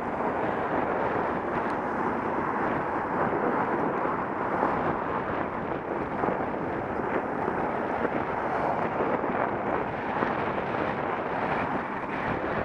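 Steady rush of wind over a Contour action camera's microphone while riding a bicycle, with small gusty ripples and no distinct events.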